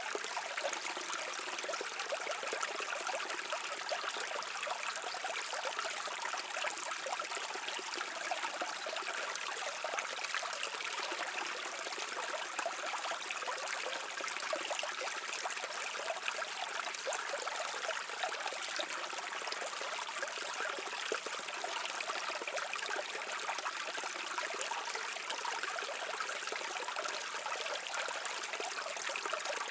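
A stream running and trickling over rocks, a steady unbroken rush of water with fine splashing detail.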